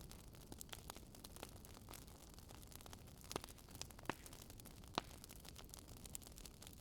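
Wood bonfire crackling: a steady patter of small crackles over a faint hiss, with three louder pops in the second half.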